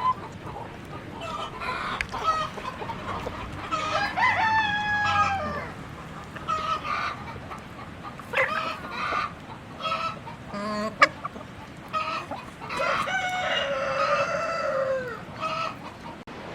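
Chickens clucking, with a rooster crowing twice: once about four seconds in and again around thirteen seconds in, the second crow falling away at its end.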